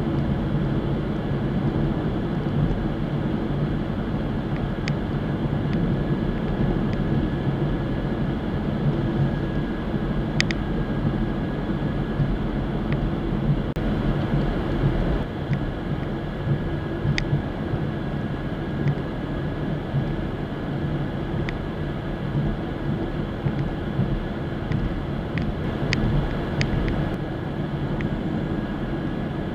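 Car cruising at a steady speed: continuous engine and road rumble with no change in pace, and a few faint light ticks now and then.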